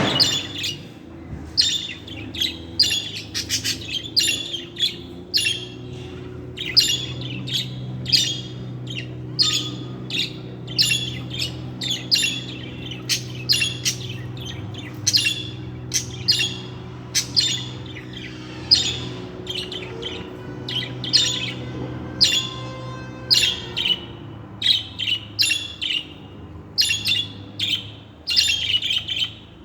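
Budgerigars chirping and chattering in a fast, continuous string of short high chirps and warbles, with a brief buzzy stretch past the middle. A steady low hum runs underneath.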